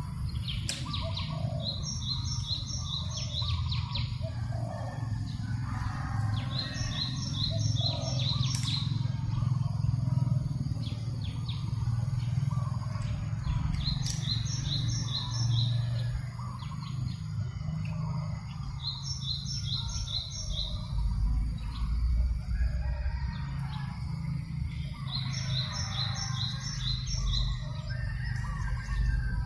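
A songbird repeating the same short phrase of five or six quick, evenly spaced high notes, about every five to six seconds, over a steady low rumble.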